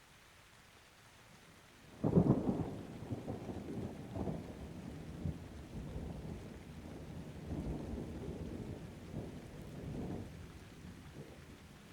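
A thunderclap over steady rain. It breaks sharply about two seconds in, then rolls and rumbles in uneven swells for several seconds before fading near the end.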